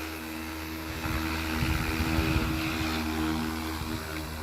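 Goosky RS4 Legend electric RC helicopter hovering: a steady whine from its rotor and motor that wavers slightly as it holds position, over a low wind rumble on the microphone.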